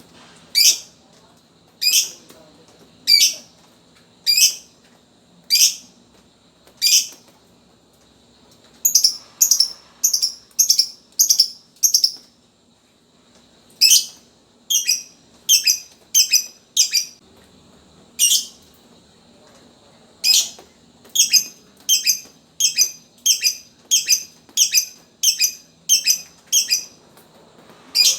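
Lovebird giving short, sharp, high chirps, the clipped 'ngetik' call: single notes about a second apart at first, then quicker runs of about two a second.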